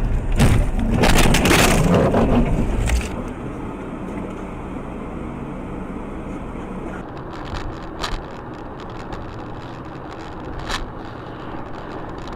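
Car driving noise as picked up by a dashcam: steady road and engine noise. In the first three seconds there is a loud, rough noisy stretch, and later there are a couple of sharp clicks.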